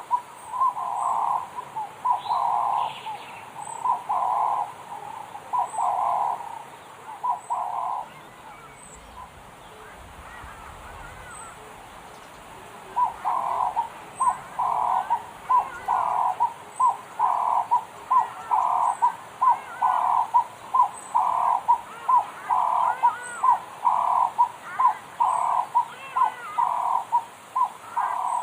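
A bird calling over and over in low, hooting notes, paired as a short note followed by a longer one, about one pair a second. The calling breaks off for about five seconds partway through. Fainter, higher chirps from other birds carry on behind it.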